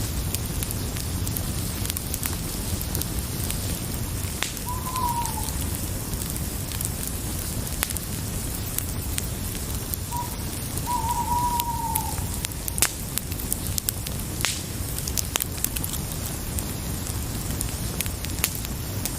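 Fire crackling, with frequent sharp pops over a steady rushing hiss. Twice, a short falling call sounds, the second one longer.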